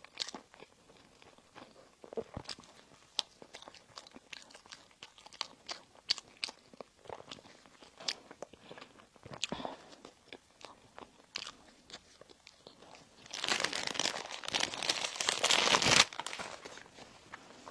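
Close-up eating sounds of bread and pastry: scattered bites and chewing clicks, then a louder, dense crackling for about three seconds near the end.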